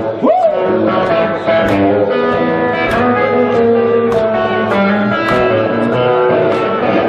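Live blues-rock band playing: guitar notes held and bent over drums, with cymbal strikes about twice a second.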